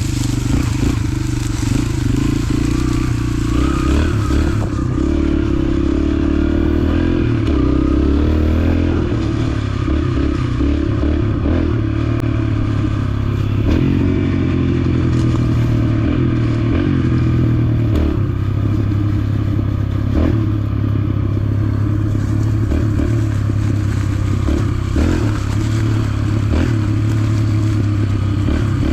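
Dirt bike engine running steadily while riding, its pitch rising and falling a little with the throttle, with scattered clattering knocks from the bike over rough ground.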